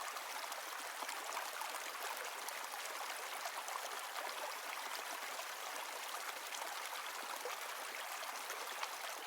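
Running water: a steady, even babble of a stream or river.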